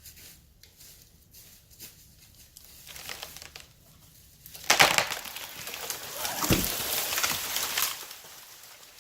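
A tree's hinge wood splintering with a sudden loud crack, then about three seconds of crackling and crashing as the trunk falls through the branches of neighbouring trees, with a low thud partway through. Before the crack only faint scattered snaps are heard.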